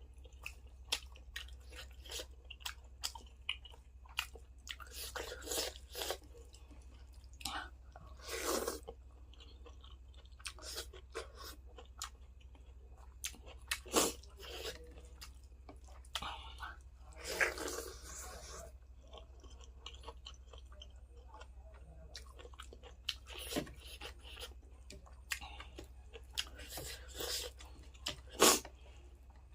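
A person chewing and crunching food close to the microphone, with many short, sharp wet mouth clicks and a few longer crunching bursts, about nine and seventeen seconds in. A low steady hum runs underneath.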